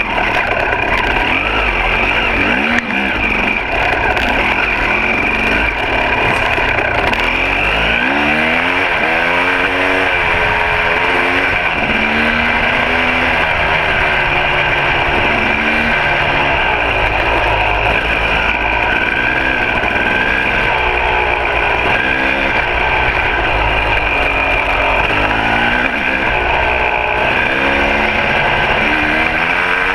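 2006 KTM 300 XC two-stroke single-cylinder dirt bike engine under way, its pitch rising and falling again and again as the throttle is opened and rolled off.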